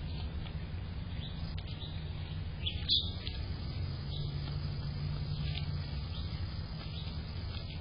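Small bird chirping: a few short, high chirps, one louder than the rest about three seconds in, over a steady low background rumble.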